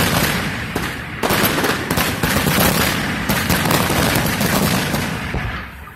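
Fireworks going off in a dense, rapid barrage of bangs and crackling, dipping briefly about a second in and fading away near the end.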